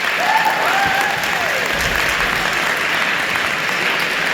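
Audience applauding, with a single rising-and-falling whoop from one listener in the first couple of seconds.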